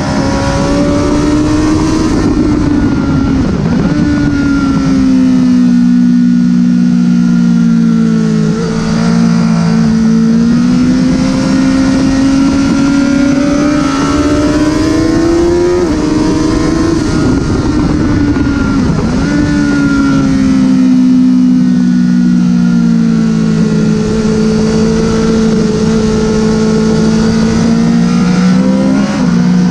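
Honda CBR1000RR inline-four sportbike engine being ridden hard around a race track. Its pitch climbs under throttle, drops abruptly at upshifts and sinks as the bike slows for corners, over a constant rushing noise.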